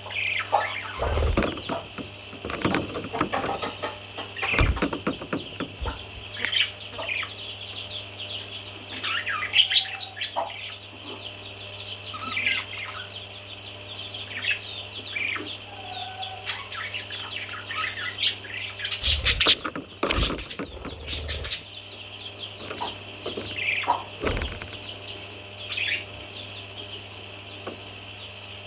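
Baby parrots chirping in short, high calls again and again, over a steady low hum. Several sudden knocks or thumps come in among the calls, a cluster of them about two-thirds of the way through.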